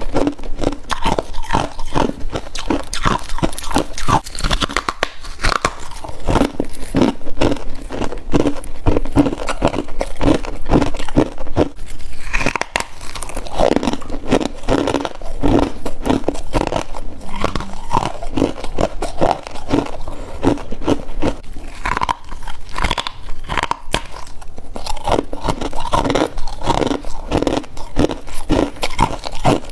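A person biting and chewing mouthfuls of freezer frost: a continuous run of crunches, several a second, with no real pause.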